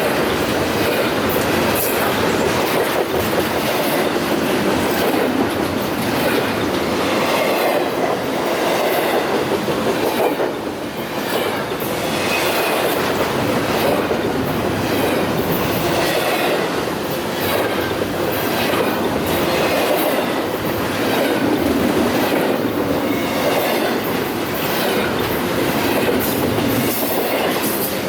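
Freight train cars rolling past, their wheels clicking rhythmically over the rail joints in a steady clickety-clack.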